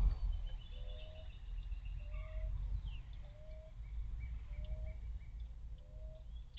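A bird calling a steady series of short, low, slightly rising hoots, about one every 1.2 seconds, over faint higher chirps and a low rumble that is loudest at the start.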